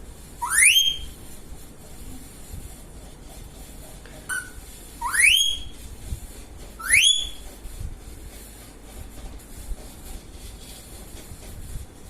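Indian ringneck parrot giving rising whistles: three quick upward-sweeping whistles, the first about half a second in and the other two close together past the middle, with a short chirp just before them.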